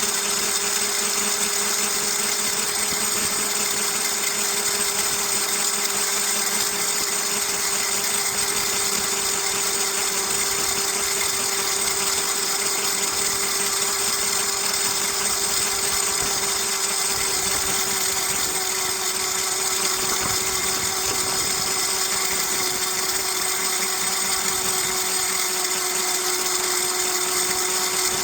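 Electric bike motor whining steadily while riding, its pitch dipping slightly near the end.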